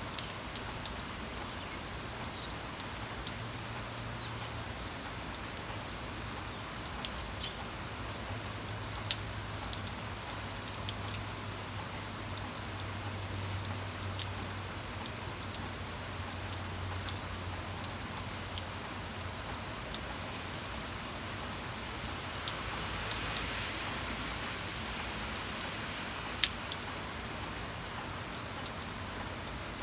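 Steady rain falling, with frequent sharp drop ticks over an even hiss. A faint low hum sits underneath through the first half.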